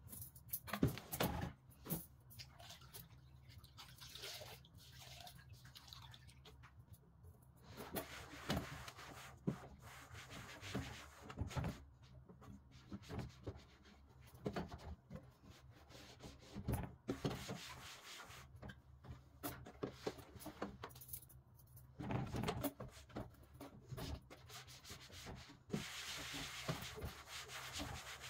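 Household cleaning sounds: surfaces being scrubbed and wiped in several stretches, with scattered knocks and clicks.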